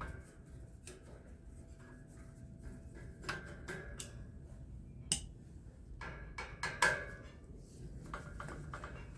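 Small metal parts and tools being handled during a fan teardown: scattered clicks and clinks with a short metallic ring, the sharpest about five seconds in and a quick cluster near seven seconds.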